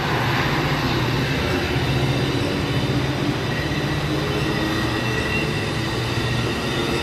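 A train running through on the rails: a steady rumble of the locomotive's engine and wheels on the track.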